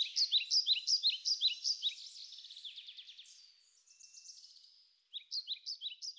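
Birds chirping: a dense run of quick, high, downward-sweeping notes that thins out and fades, then a fresh run of chirps starting about five seconds in.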